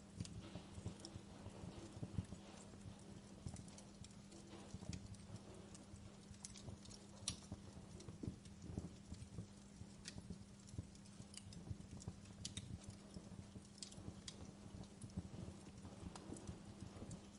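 Wood fire crackling in a fireplace: irregular sharp pops and snaps of burning logs over a low, steady hum.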